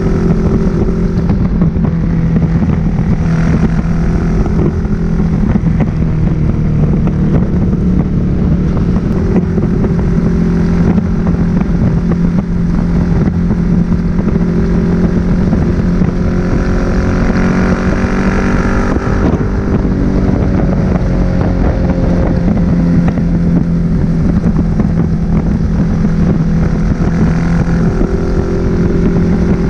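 2005 Suzuki SV1000S's 90-degree V-twin running at a steady cruise through a Leo Vince aftermarket exhaust, heard from on the bike with wind noise on the microphone. A second, higher engine note swells briefly about two-thirds of the way through.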